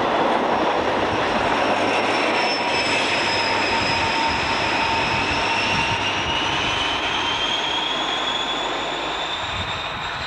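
InterCity passenger train pulling away from the platform: a steady rumble of wheels and coaches with a whine that rises in pitch as it speeds up, fading as the train moves off.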